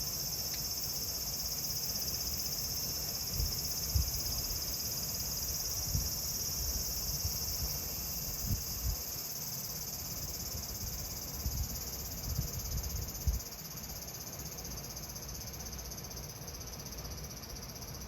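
Cicadas singing in a steady, unbroken high-pitched chorus, with a few soft low thumps scattered through the middle.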